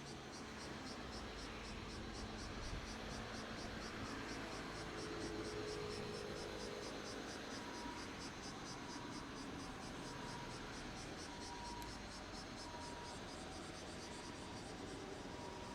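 Quiet outdoor ambience of a steady rapid high-pitched chirping pulse, about 3.5 a second, over a low even background noise. A faint mid-pitched tone comes and goes in the second half.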